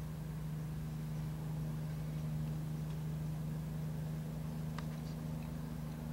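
Steady low hum of an idling vehicle engine, with a few faint clicks about five seconds in.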